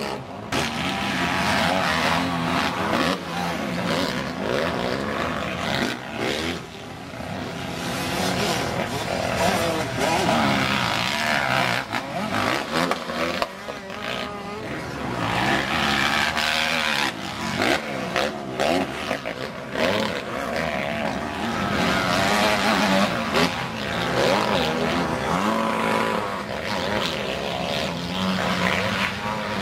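Motocross bike engines racing around a dirt track, revving up and down again and again as the riders accelerate, shift and pass, with several bikes often heard at once.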